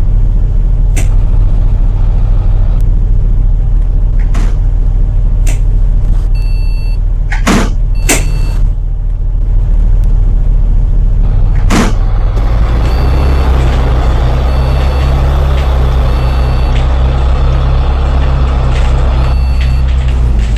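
A Hong Kong double-decker bus heard from inside its cabin while under way: a loud low engine drone with sharp rattles and knocks from the body. About twelve seconds in, the engine note changes and settles into a steady drone as the bus pulls on, with short high beeps repeating in the background.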